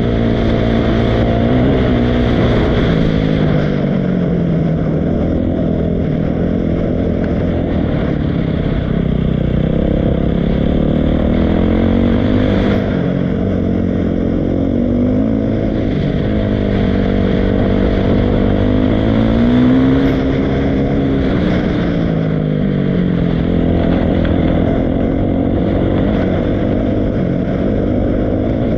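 Dirt bike engine running continuously while being ridden, its pitch rising and falling again and again as the throttle opens and closes.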